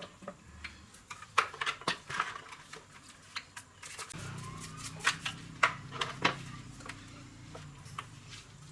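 Small metal parts and hand tools clinking and tapping against each other in irregular knocks. About four seconds in, a low steady hum starts up under them.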